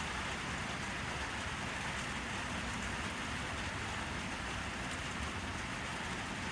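Steady rain falling, a constant even hiss with no change in strength.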